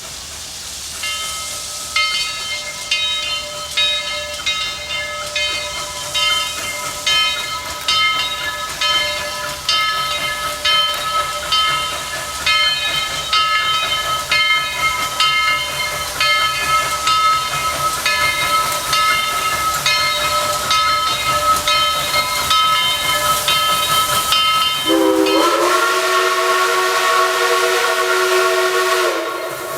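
Steam locomotive bell ringing in even strokes about twice a second, then the steam whistle of Southern Railway 2-8-2 No. 4501 opening with a rise in pitch and blowing a long chord, dipping briefly near the end.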